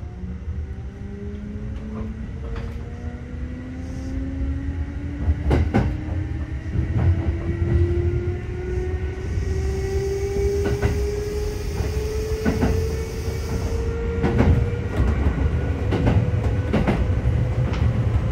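Kintetsu electric train heard from inside its front car, accelerating: the traction motors' whine rises steadily in pitch over a low running rumble. The wheels give irregular sharp clacks as they cross rail joints and points, and a faint hiss comes in for a few seconds in the middle.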